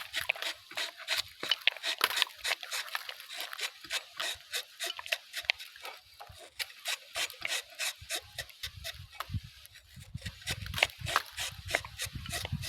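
Rubber-tapping knife shaving a thin strip of bark along the cut on a rubber tree: a steady run of quick, crisp scrapes and ticks. A low rumble joins in beneath it in the second half.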